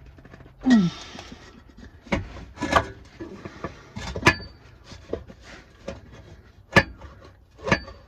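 Irregular knocks, clinks and scraping of metal exhaust pipework being worked into place by hand, as a section is pushed onto its joint and clamp.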